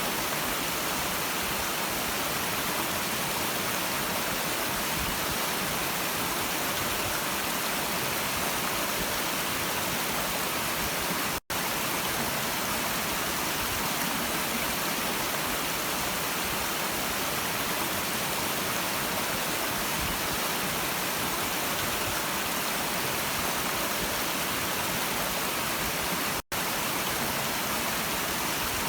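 Steady rushing of a stream, an even hiss-like water noise. The sound cuts out for an instant twice, about eleven seconds in and a couple of seconds before the end.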